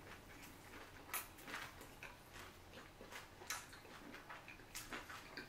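Quiet chewing of sushi, with a few faint, scattered small mouth clicks and smacks.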